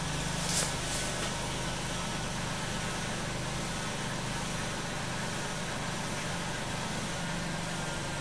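2011 Dodge Grand Caravan engine running steadily at idle with a whine, which the owner puts down to oil left about 5,000 km past its change.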